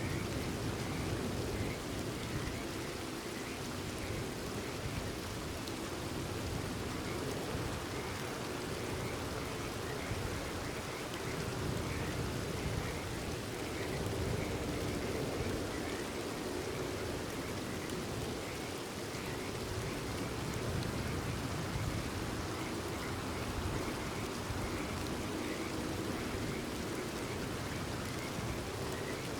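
Steady rain falling, with frogs giving short repeated calls over it.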